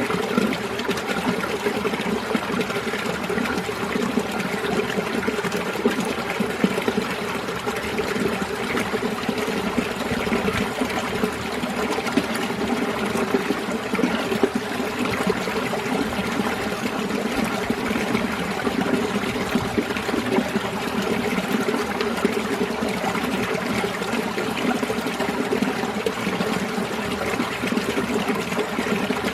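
Mountain valley stream flowing and trickling steadily, with no breaks.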